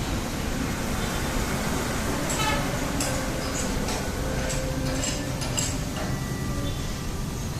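Steady low mechanical rumble with scattered light metallic clinks from about two seconds in.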